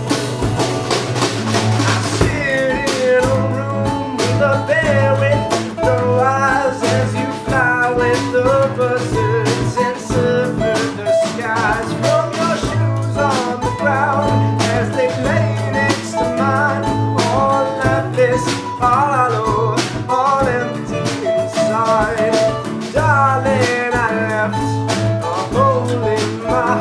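A band playing a blues-style song: a guitar playing a wavering, bending melody over a steady low note and a drum kit.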